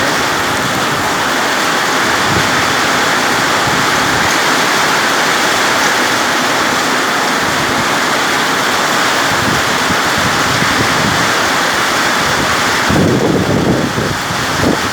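Heavy rain pouring down in a steady, loud hiss. About thirteen seconds in, wind gusts buffet the microphone.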